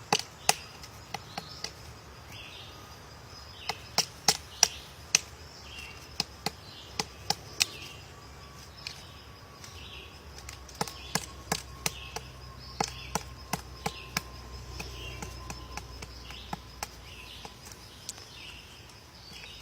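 Woodpecker pecking at wood: sharp, irregular knocks, some single and some in quick runs of several, with short pauses between.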